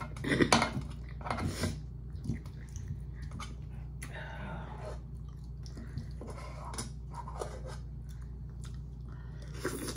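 A person chewing a mouthful of noodles, with a utensil clicking and scraping against the metal inside of a small pot. Short clicks come in the first couple of seconds, then softer wet mouth and stirring noises.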